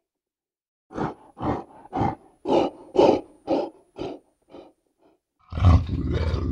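Black bear calling: a run of eight short calls, about two a second. Near the end a steady low rumbling noise comes in.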